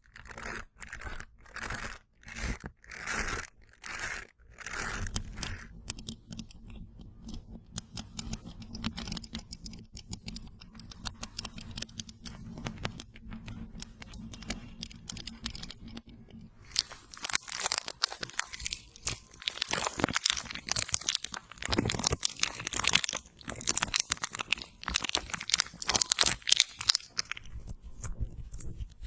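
Sticky slime being wiped in repeated strokes, first a separate squelch about every second, then a denser run of small wet clicks. About two-thirds of the way through this gives way to louder plastic crinkling and crackling as a cooling gel patch is unwrapped and handled.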